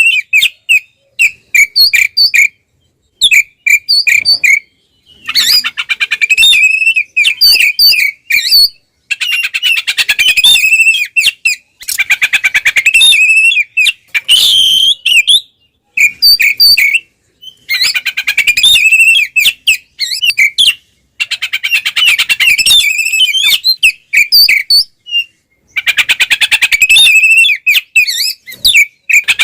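Oriental magpie-robin (kacer) singing loud, aggressive territorial song in phrases a few seconds long with short pauses between them: runs of repeated whistled notes alternate with rapid, harsh rattling trills.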